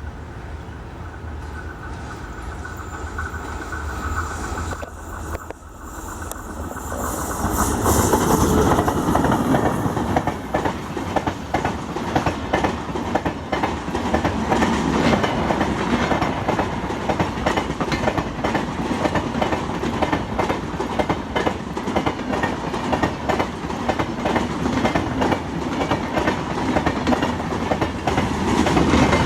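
Express passenger train approaching and then passing close by at speed. The locomotive comes up loud about eight seconds in, followed by a long run of rapid, rhythmic wheel clatter over the rail joints as the coaches go by.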